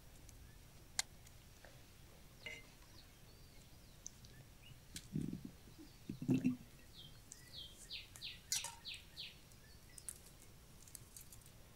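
Small birds chirping in short repeated notes, most of them in the second half, with scattered faint clicks and two soft low thumps near the middle.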